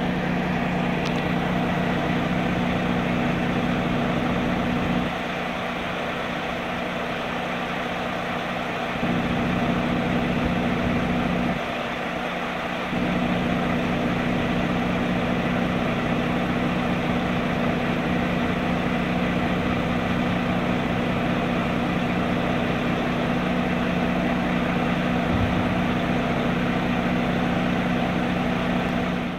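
Heavy truck engine idling steadily with a low hum. The lowest part of the hum drops away twice, once for about four seconds and once briefly.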